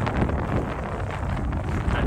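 Wind buffeting the microphone: an uneven rumbling noise, heaviest in the low end, with no clear engine tone.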